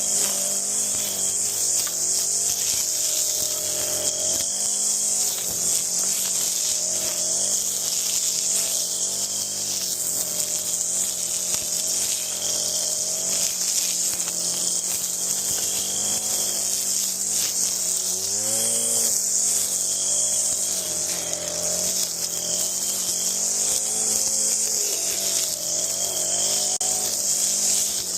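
Stihl two-stroke string trimmer engine running after being repaired from a no-start. Its pitch wavers up and down as the throttle is worked, with a bigger rev up and back down about two-thirds of the way through.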